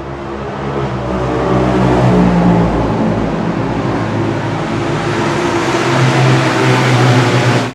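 Two-stroke racing motorcycle engine running hard. It grows louder over the first two seconds, holds strong, and cuts off abruptly near the end.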